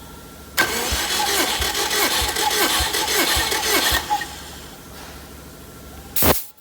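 Subaru EJ253 flat-four turned over on its starter motor for about three and a half seconds for a compression test, with an even pulse roughly every 0.6 s as the tested cylinder comes up on compression. A short sharp burst of noise follows near the end.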